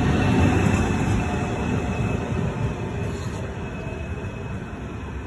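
Trenord TSR double-deck electric multiple unit pulling out past the platform. Its rolling rumble, with a thin steady high whine over it, fades steadily as the train draws away.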